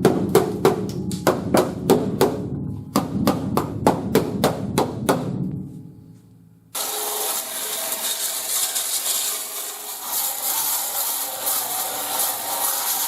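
Background music with a steady drum beat fades out. About two-thirds of the way in, it cuts abruptly to a power sander with a coarse resin-fiber disc grinding paint and rust off a steel car floor pan, a steady harsh hiss.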